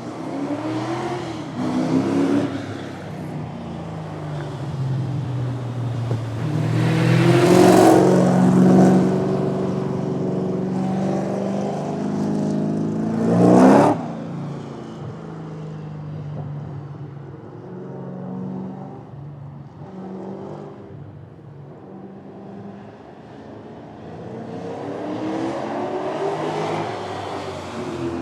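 Car engines at a spectator drag race, revving and accelerating hard down the track. The loudest moment comes about 14 seconds in as a car passes close, its pitch dropping as it goes by. The engines climb again near the end.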